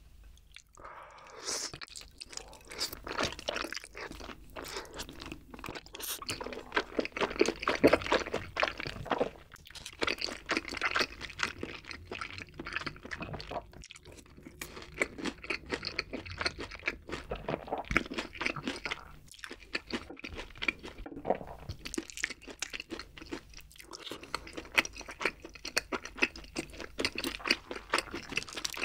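Close-miked chewing and crunching of rosé tteokbokki with its wide glass noodles. Dense, irregular wet mouth clicks and crunches begin about a second in.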